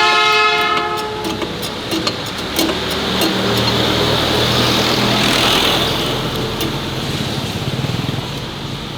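A horn sounds loudly and cuts off about a second in; from about three seconds a motor runs with a steady low hum, with scattered clicks and clatter.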